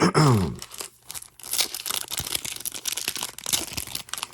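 A trading-card pack wrapper being torn open and crinkled: a rough, irregular crackle that starts about a second and a half in. A short falling vocal groan comes just before it.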